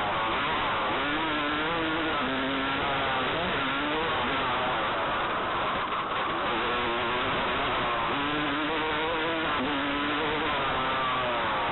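Motocross dirt bike engine revving up and down repeatedly as it is ridden around the track, over a steady rushing noise, with a brief drop about six seconds in.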